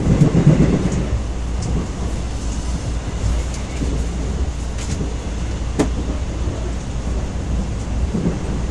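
Passenger train running on the Jungang Line, heard inside the carriage: a steady low rumble of wheels on rail, with a louder swell in the first second and a few sharp clicks scattered through it.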